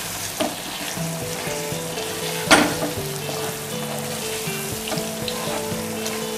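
Chicken in a thick masala, its coconut-milk gravy cooked down, sizzling in a nonstick pan while a spatula stirs and scrapes it, with one sharp knock about two and a half seconds in.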